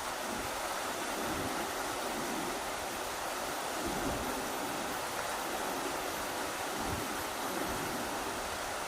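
Rushing river water making a steady, even hiss, with irregular low gusts of wind.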